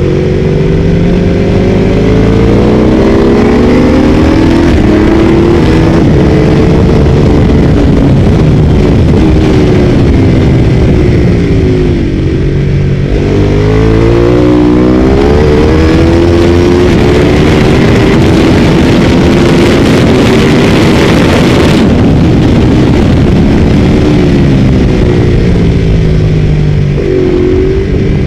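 Ducati 848's V-twin engine heard onboard at full speed on a racetrack. It revs up through the gears in repeated rising climbs, with the engine note dropping sharply twice as it slows and shifts down. Wind rush builds with speed and cuts out suddenly about two-thirds of the way through.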